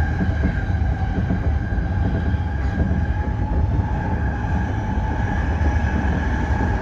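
Tōyō Rapid Railway 2000 series electric train heard from the cab: a steady rumble of the train on the track with a steady whine over it.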